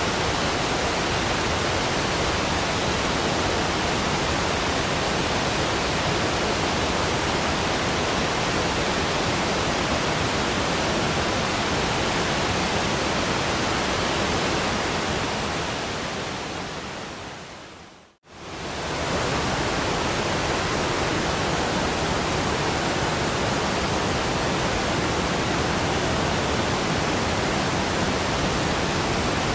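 Steady rushing of a waterfall, an even, unbroken roar of falling water. About fifteen seconds in it fades down to a moment of silence, then swells back up within about a second and carries on as before.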